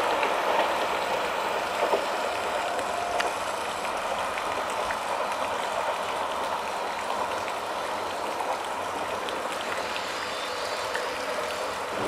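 Diesel railcar slowing to a stop: its running noise on the rails dies away over the first few seconds, leaving a steady hiss.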